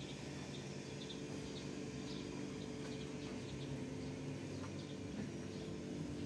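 Small birds chirping faintly and intermittently over a steady low hum.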